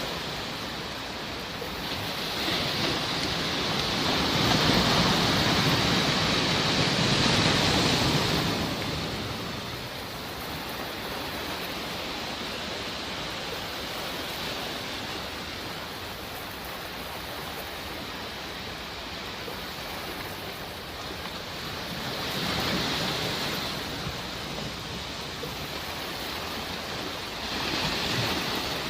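Sea waves washing ashore as a steady surf hiss that swells with a breaking wave. The longest swell comes a couple of seconds in, with two shorter ones later.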